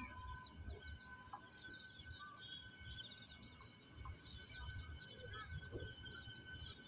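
Faint small birds chirping, many short high chirps in quick succession, over a low uneven rumble.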